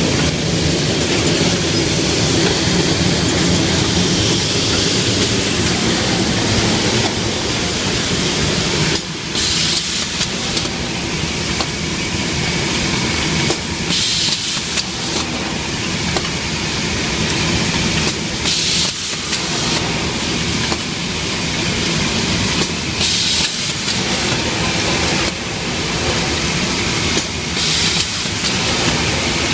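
Lamp-production machinery running on a factory line: a steady, loud mechanical clatter and rumble, broken every few seconds by short bursts of high hiss.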